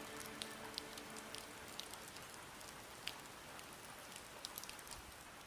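Faint, steady rain hiss with scattered raindrop ticks; the last held notes of music fade out in the first second or so.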